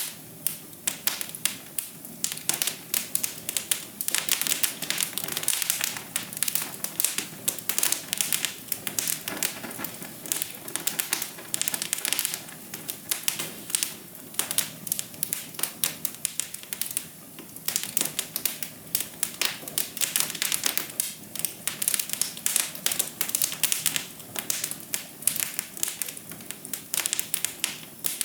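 Wood fire crackling in a fireplace: dense, irregular snaps and pops over a soft, steady hiss.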